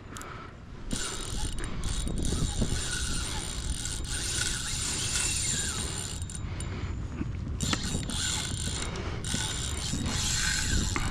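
Spinning reel's drag ratcheting steadily as a hooked redfish pulls line out against it, louder from about a second in.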